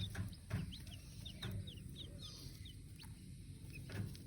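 Newly hatched chicks cheeping, many short high peeps scattered throughout, with a few soft low clucks from the mother hen.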